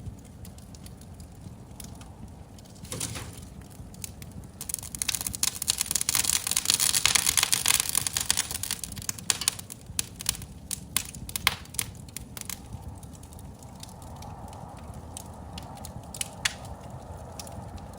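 Fireplace fire crackling over a low steady rumble, with a dense loud spell of crackling about a quarter of the way in and scattered sharp pops after it.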